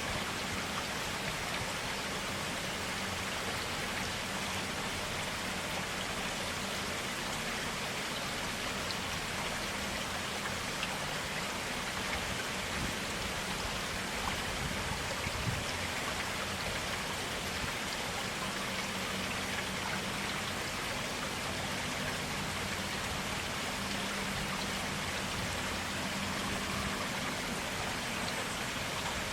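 Forest stream flowing steadily: an even, continuous rush of running water.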